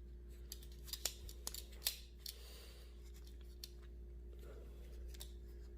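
Faint clicks and rubbing of plastic and metal parts as a selfie stick's phone holder is screwed onto the top of the stick: several sharp clicks in the first two seconds, then a soft scrape.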